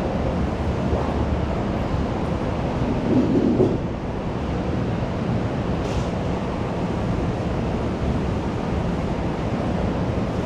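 Steady, muffled hubbub of a school canteen, a dense low rumble with no clear voices, swelling briefly louder about three seconds in.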